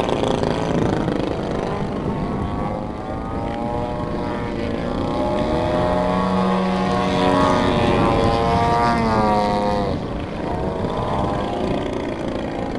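Gasoline engine of a giant-scale radio-controlled aerobatic plane, a 104-inch Slick, running hard through an aerobatic manoeuvre. Its pitch swings up and down several times as the throttle changes and the plane passes by.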